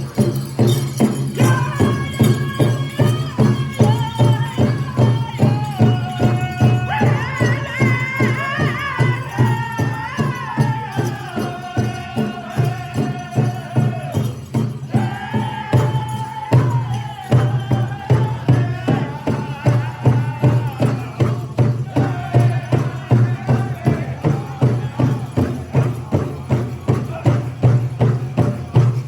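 Powwow drum group singing around a big drum struck in a steady, fast beat. Voices carry a melody that descends phrase by phrase, then start a new high phrase about halfway through.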